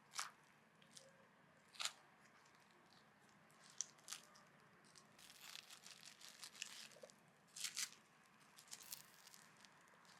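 Faint, scattered short scrapes and crinkles of hands and utensils working the food, a dozen or so brief sounds that come thickest in the second half.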